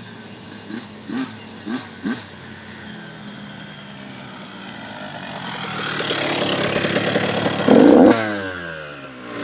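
An 85cc dirt bike engine that grows steadily louder as the bike approaches and is loudest a little before the end. Its pitch then falls away as the rider slows down to stop.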